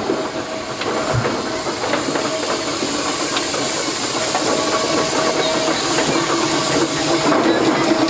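Steam traction engine hissing steam steadily, with a few scattered clicks and knocks; the hiss grows a little louder near the end.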